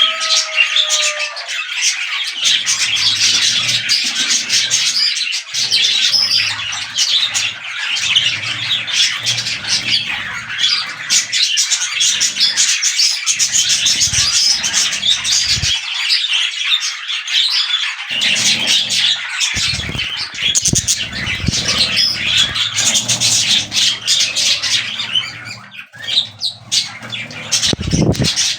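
Budgerigars chattering, a dense, continuous run of chirps, warbles and squawks with a short lull near the end.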